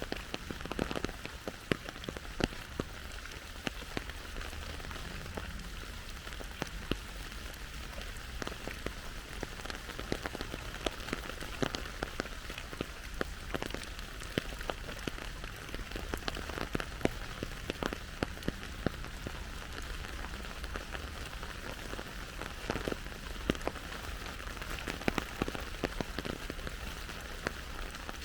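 Steady rain falling, with many separate drops landing close by as sharp ticks scattered irregularly through it.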